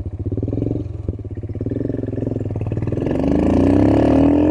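Royal Enfield Himalayan's 411 cc single-cylinder engine with an aftermarket exhaust, heard from the saddle while riding. It pulses steadily, then about three seconds in its pitch climbs as the bike accelerates.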